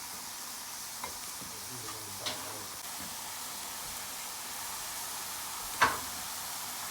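Mushrooms, asparagus and freshly added chopped purple onion sizzling in a frying pan, a steady hiss. A utensil clicks against the pan a few times as it is stirred, most sharply near the end.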